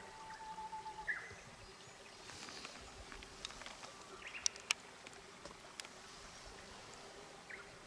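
Faint mountain-forest ambience: a bird whistles one held note and then a quick falling note about a second in, followed by scattered short chirps and sharp ticks, over a faint steady hum.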